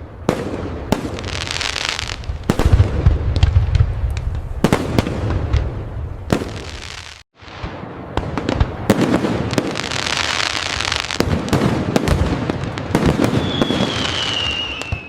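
Fireworks display: rapid overlapping bangs and crackling, with a deep rumble of bursts from about two and a half to five seconds in. The sound cuts out briefly about seven seconds in and then resumes. Near the end a high whistle falls slightly in pitch over the bursts.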